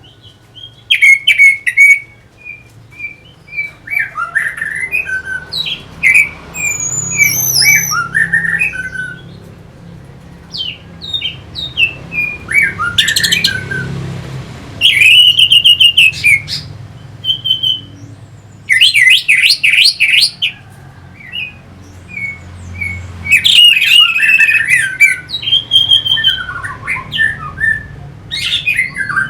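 Orange-headed thrush singing: a long, varied song of whistled notes, quick trills and harsh rattling phrases, in loud bursts with short pauses between.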